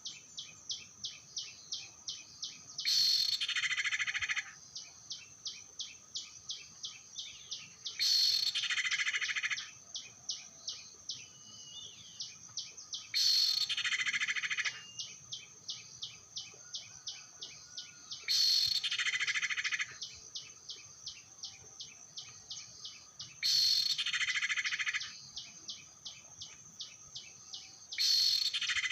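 Looped lure recording of common iora (cipoh/sirtu) calls. A dense, loud burst of calls comes back about every five seconds, with fast runs of short repeated notes in between.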